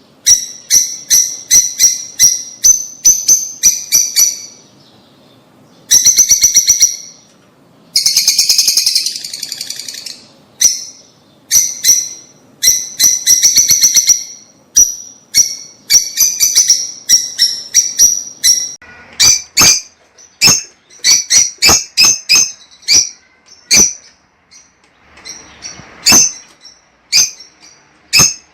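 Lovebirds chattering: shrill, sharp chirps repeated in quick runs, broken by short pauses, with a harsher, raspier call about eight seconds in.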